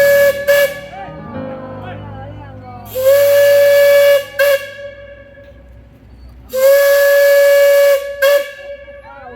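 Steam whistle of Alishan Forest Railway's No. 31 steam locomotive, a geared Shay engine, sounding a steady pitched blast with a hiss of steam. It repeats three times, each long blast of about a second followed by a short toot.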